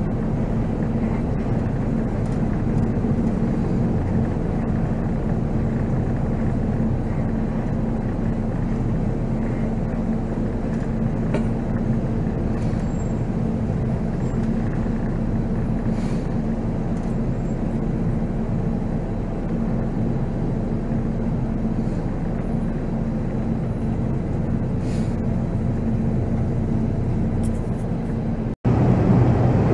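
Volvo B7R coach's six-cylinder diesel engine running steadily, heard from the driver's seat as a constant hum. It cuts out for an instant near the end and returns louder.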